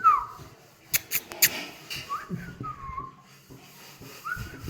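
Three short whistles, each sliding up and then down in pitch: one at the start, one about two seconds in and one near the end. About a second in come three sharp clicks.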